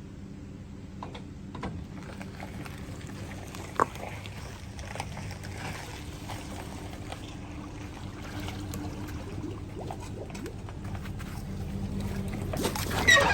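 Water trickling and lapping against a small boat's hull over a low steady hum, with scattered light knocks and one sharper knock about four seconds in. Near the end a louder sound sweeps down in pitch.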